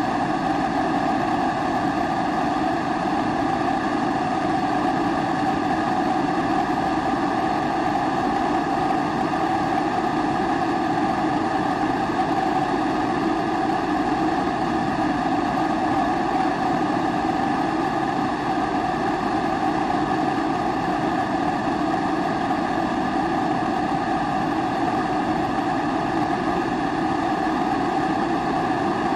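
Pressurised kerosene stove (Primus-type babour) burner running, a steady unbroken rushing sound that does not change.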